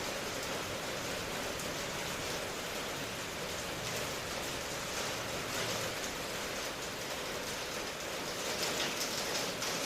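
Steady rain falling: an even hiss of many drops, with the patter growing a little louder and more distinct near the end.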